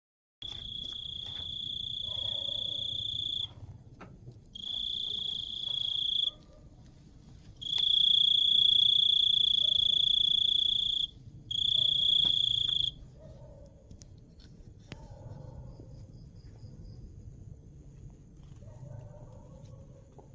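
Crickets trilling at night: a loud, steady, high trill that comes in four long bouts of one to three and a half seconds each, then drops away, over a fainter, higher chirp that repeats about twice a second.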